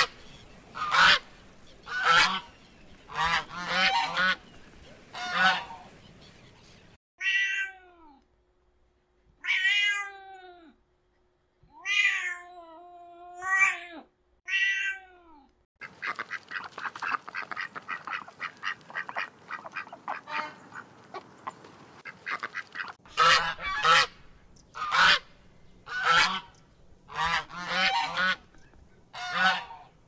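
Loud honking calls of waterfowl, roughly one a second, about five at the start and six near the end. Between them come about five drawn-out pitched calls that bend downward at their ends, then several seconds of dense, rapid, noisy chatter.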